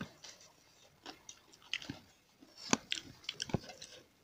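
Close-up mouth sounds of eating rice by hand: chewing, heard as a scatter of short wet clicks, the loudest a little under three seconds in and again about a second later.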